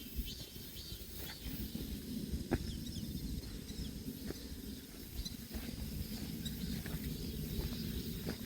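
Natural outdoor ambience: a steady low rumble with scattered small clicks and a few faint, brief high chirps.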